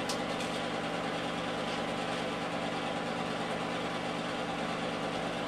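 Steady machine hum with several fixed tones, unchanging in level.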